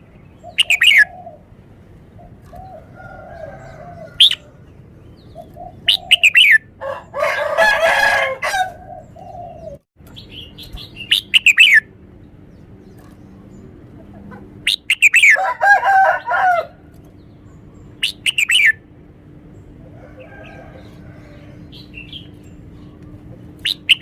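Red-whiskered bulbul singing: short phrases of quick falling whistles repeated every couple of seconds, with two longer, lower and rougher calls, one about seven seconds in and one about fifteen seconds in.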